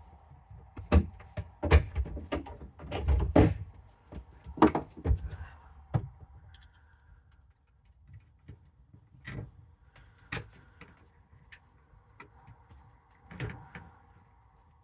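Sharp knocks and clicks of plastic fan-hatch parts, the fan spindle and screws being handled and fitted back together, loudest and most frequent in the first six seconds, then a few lighter clicks.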